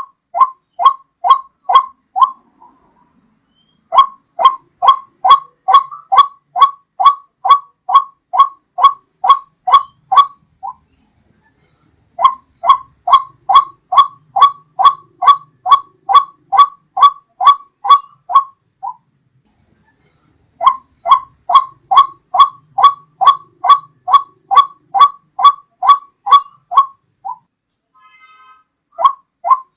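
White-breasted waterhen lure call: a steady run of short notes, each dropping in pitch, about two and a half a second. The notes come in bouts of six seconds or so, with a pause of a second or two between them.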